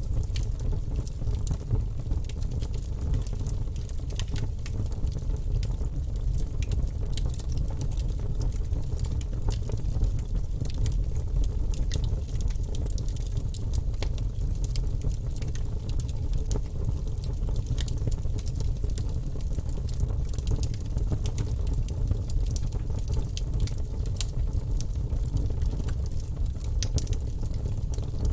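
Wood fire burning in a fireplace: many irregular crackles and pops over a steady low rumble of the flames.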